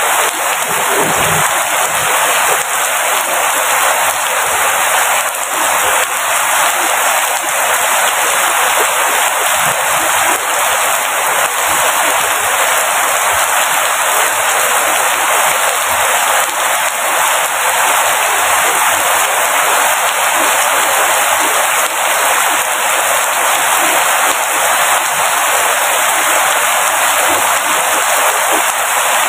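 Steady rain falling, an even hiss that holds at the same level throughout, with little low rumble in it.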